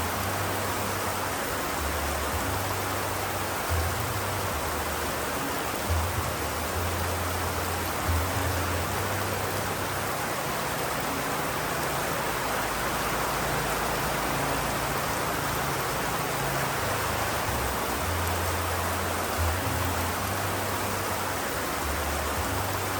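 Steady rain, an even unbroken hiss, with a low rumble that comes and goes underneath.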